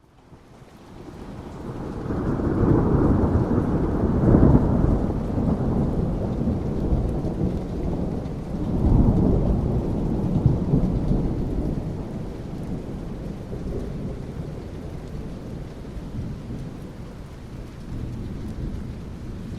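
Thunder rumbling over steady rain. The rumble builds out of silence over the first two seconds, swells twice (about 4 and 9 seconds in), then slowly rolls away while the rain keeps falling.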